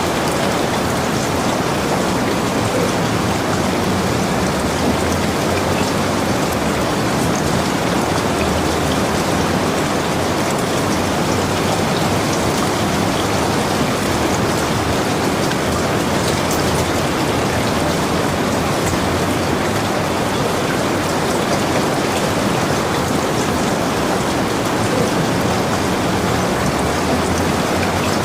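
Rain falling steadily, an even hiss that holds level throughout without breaks or thunder.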